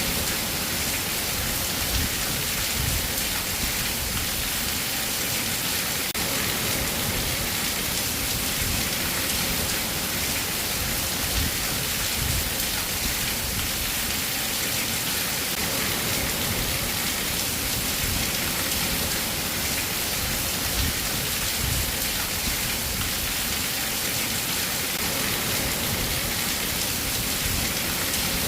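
Steady rain falling, an even, dense hiss that holds at the same level throughout.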